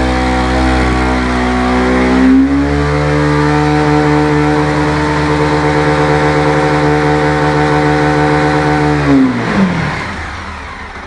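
Mahindra Mojo UT300's 297 cc single-cylinder, liquid-cooled, carburetted DOHC engine heard through its single exhaust can, held at steady revs. The revs step up about two seconds in and hold, then fall away near the end as the throttle is released.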